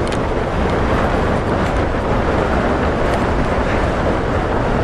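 Gale-force wind of about 40 mph battering a Hilleberg Soulo tent: a constant loud rushing noise like being on the wing of a jet plane, with the tent fabric rattling and a few sharper flaps.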